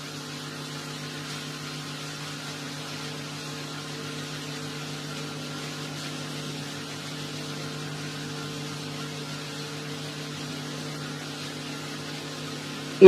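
A faint, steady low hum with a few higher tones held unchanged above it, with no rise or fall.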